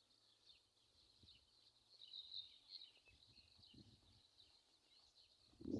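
Faint birdsong: many small birds chirping and twittering, busiest about two seconds in.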